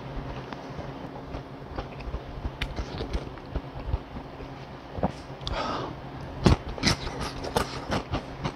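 Close-miked eating sounds: a man chewing food with wet smacks and sharp mouth clicks, thickest in the second half. A faint steady hum runs underneath.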